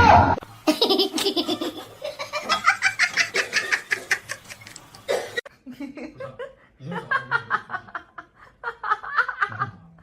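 Hearty human laughter in rapid, repeated ha-ha pulses, opening with a short loud burst. It breaks off about five seconds in and comes back in softer, choppier bursts.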